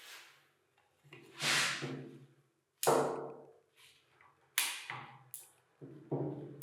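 Parts of an old handheld external concrete vibrator being handled and taken apart: a short rattle, then a few sharp knocks and clanks a second or two apart.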